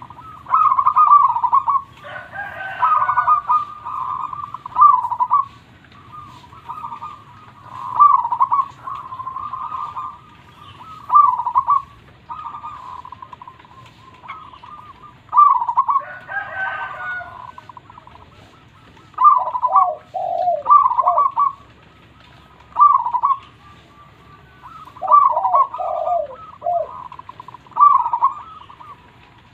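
Zebra dove (perkutut) singing: short phrases of quick rippling coos, repeated every couple of seconds. Lower, falling coo notes join in twice.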